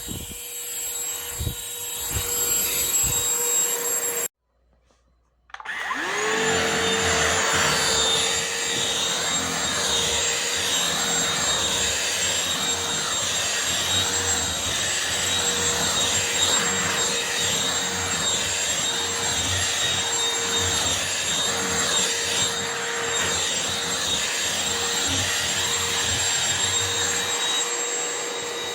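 Shark CH950UKT handheld cordless vacuum cleaner's motor running with a steady whine. It cuts off abruptly about four seconds in. After a second of silence it starts again, its pitch rising quickly as the motor spins up, and then runs steadily.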